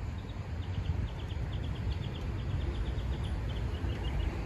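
A bird's rapid series of short, high chirps, a few dropping slightly in pitch near the end, over a low steady rumble.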